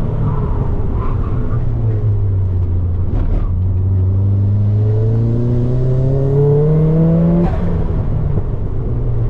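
Turbocharged Mazda MX-5 engine accelerating hard. Its pitch dips about two seconds in, then climbs steadily for about five seconds and drops sharply at an upshift near the end.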